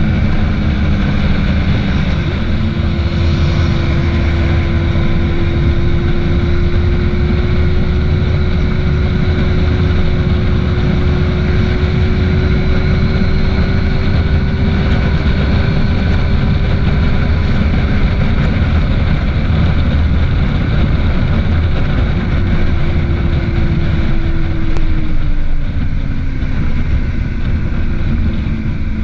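Yamaha FZ6's inline-four engine running steadily at highway speed from the rider's seat, with wind on the microphone. The engine note rises slightly, then drops over a few seconds near the end as the bike eases off.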